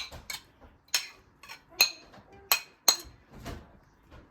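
Dishes and glassware being handled: about seven sharp clinks, several with a brief high ring.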